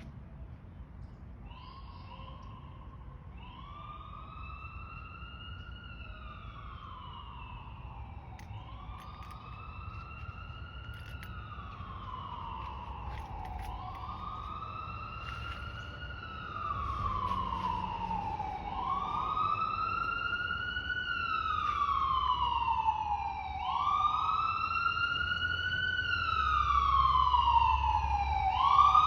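Emergency vehicle siren on a wail: the tone rises quickly, then falls slowly, repeating about every five seconds. It starts faint and grows steadily louder as it approaches.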